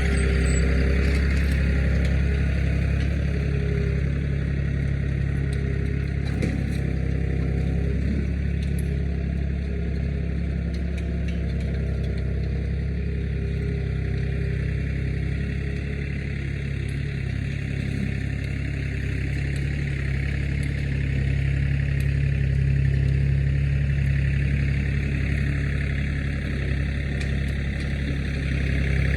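Tractor engine running steadily under load, pulling a two-row corn planter across a field.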